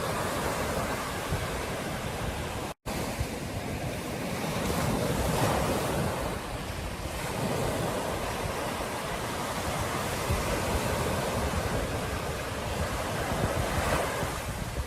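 Ocean surf washing onto a beach, in slow swells, with wind buffeting the microphone. The sound cuts out for a split second about three seconds in.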